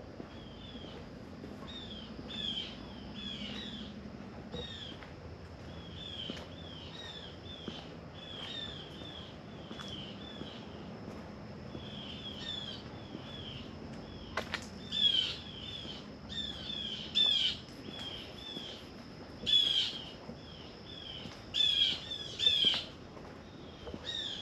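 Birds calling: a steady run of short, high downslurred chirps, joined from a little past the middle by about half a dozen loud, harsh squawks. A faint, steady high tone runs underneath.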